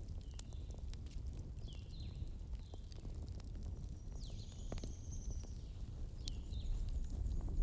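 Campfire crackling, with scattered sharp pops over the low steady rumble of the burning wood. Short high descending chirps, like forest birds calling, come several times.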